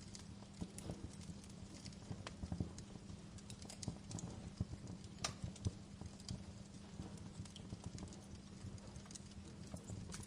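Wood fire crackling in a fireplace: irregular snaps and pops, with the sharpest couple of pops a little past the middle, over a faint steady low hum.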